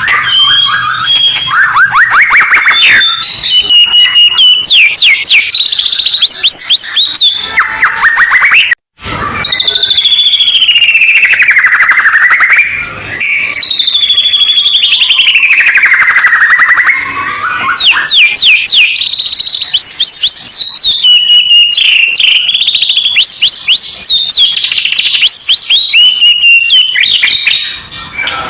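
Loud recorded songbird song: fast trills of rapidly repeated notes and long slurred whistles that sweep down and back up, with a brief silent break about nine seconds in. It is a masteran tutor and provocation track for white-rumped shamas.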